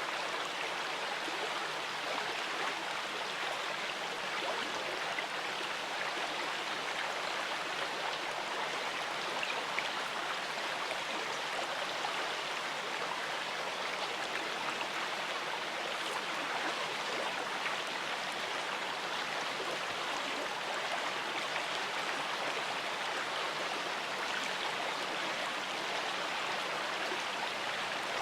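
River water running over stones: a steady rushing with no breaks or events.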